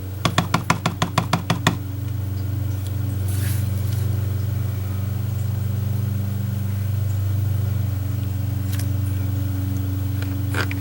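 A rubber stamp tapped quickly about ten times on an ink pad in the first couple of seconds, inking it. A steady low hum runs underneath throughout.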